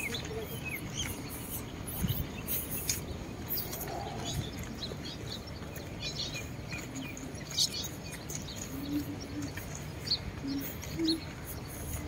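Small birds chirping in short, scattered calls over a steady low background rumble of outdoor noise.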